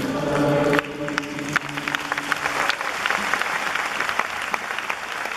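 The song's last held note stops just under a second in, and a large audience applauds.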